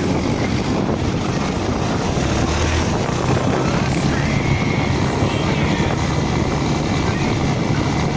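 Motorcycle on a dirt trail, its engine running under a steady, loud rush of wind on the microphone.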